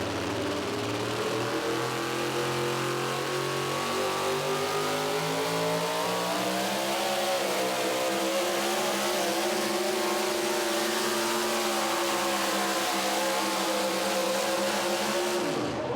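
Four-wheel-drive pulling truck's engine running at high revs under load, its pitch climbing slowly over the first several seconds, then holding steady, and dropping off sharply near the end.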